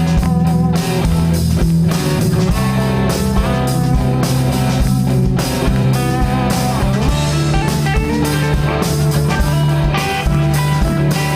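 Live rock band playing an instrumental passage between vocal lines: two electric guitars, bass guitar and drum kit, with steady drum beats under sustained bass notes. In the second half a lead guitar line wavers with vibrato.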